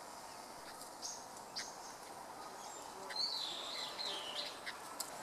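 Red-billed leiothrix calling: a few short high chips, then a wavering whistled phrase about three seconds in, over a faint steady hiss.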